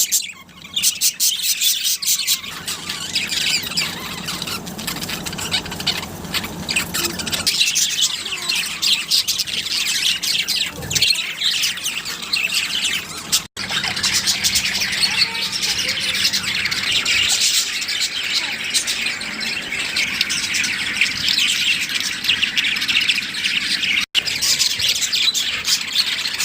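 Several pet budgerigars chattering, with a continuous mix of rapid chirps, warbles and squawks. The sound breaks off for an instant twice.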